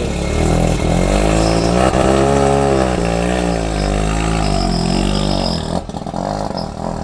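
13B rotary engine in a C5 Corvette running and being blipped, its note rising and falling several times, with a short drop in level near the end.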